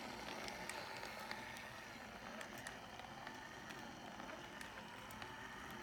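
Faint steady whir of the small DC motor turning the 3D-printed plastic Subaru EJ20 cutaway model through its gears, with light irregular clicks from the plastic parts.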